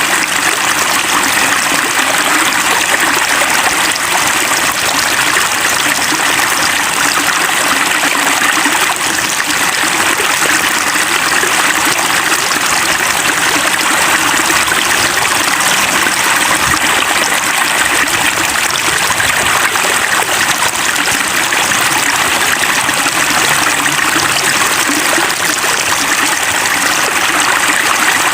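Rainwater running and splashing in a steady, unbroken rush.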